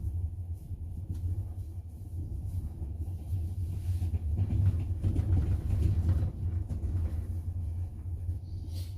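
Running rumble of a double-decker passenger train, heard from inside the carriage, growing louder for a few seconds in the middle.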